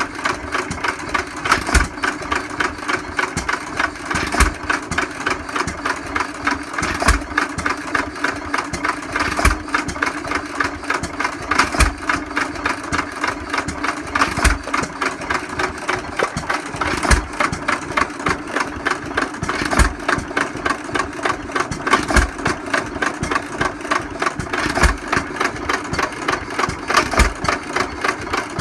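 Vintage Bamford stationary engines running at idle: a steady quick beat of strokes, with a heavier low thump about every two and a half seconds.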